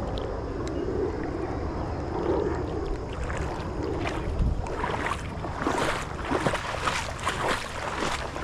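Creek water sloshing and splashing around a wader's legs, a low rushing swell at first, then from a few seconds in a run of irregular splashes.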